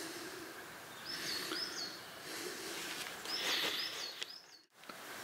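A songbird singing two short phrases of repeated high notes over faint outdoor background hiss. The sound drops out briefly just before the end.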